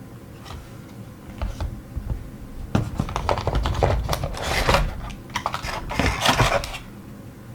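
Plastic packaging being handled: a few separate light clicks, then about four seconds of dense clicking and crinkling rustle.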